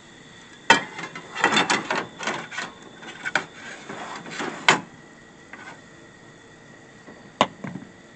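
Objects being handled: a few sharp knocks, with a spell of rustling and scraping between the first two.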